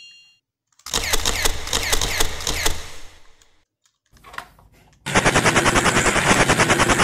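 Two bursts of rapid, machine-gun-like rattling sound effects. The first starts about a second in and runs for about two seconds. The second fills the last two seconds with an even rattle of about ten beats a second.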